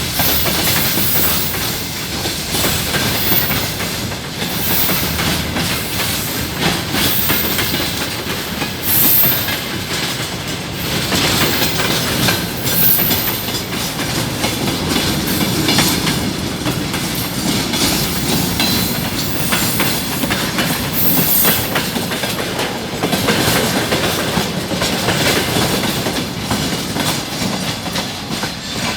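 Freight train rolling past, its wheels clattering steadily over the rail joints, with short high wheel squeals now and then.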